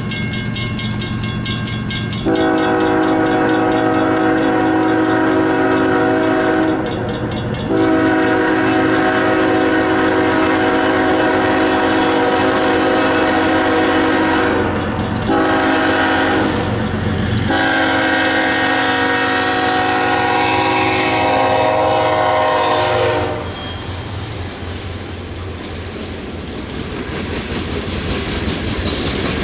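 Diesel locomotive's multi-chime air horn sounding the grade-crossing signal of long, long, short, long, over the steady drone of the engine. Train noise carries on after the horn stops about 23 seconds in.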